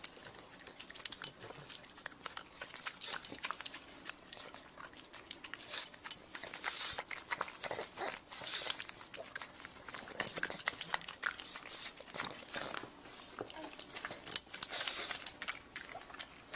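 A dog making a run of short, irregular sounds, with sharp clicks scattered throughout.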